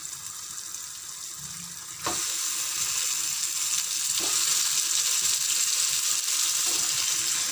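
Onion-tomato masala sizzling in oil in a steel kadhai. The sizzle jumps louder about two seconds in, with a knock of the spatula, as the roasted mashed eggplant goes into the hot pan. A second spatula knock comes a couple of seconds later.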